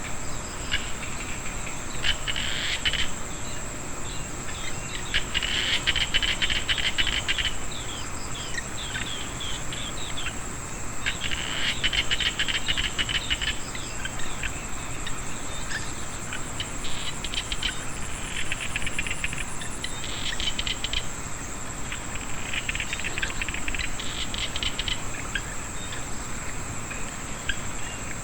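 Chorus of small paddy frogs calling in bouts of rapid clicking trills, each about a second long and coming every few seconds, over a steady high-pitched insect drone. The frogs and insects are calling after rain.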